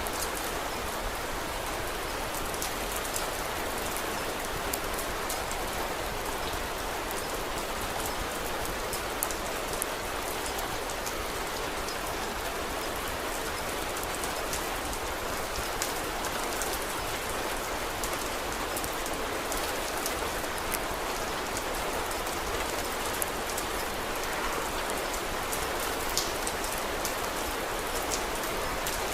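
Steady rain falling, a continuous even patter with scattered small sharp ticks through it.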